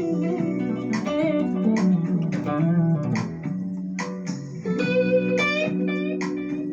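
Guitar music: plucked guitar notes, some bending in pitch, over a bass line and a steady beat.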